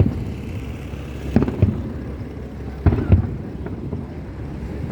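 Fireworks shells bursting overhead: a boom near the start, two close together about a second and a half in, and two more about three seconds in, over a steady low background rumble.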